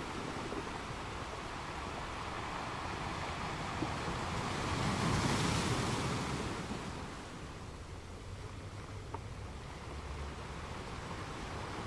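Gentle ocean waves washing on a sand beach; one wave swells and breaks about halfway through, then the wash falls quieter.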